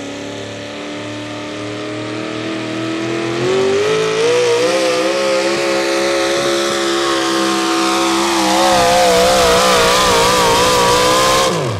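Modified 4x4 pulling truck's engine at full throttle under load. The pitch climbs about three seconds in and holds high, wavers up and down near the end, then falls off steeply in the last moment.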